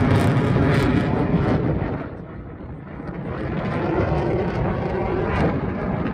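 Aircraft flying overhead, a loud rumble that fades about two seconds in and then builds again.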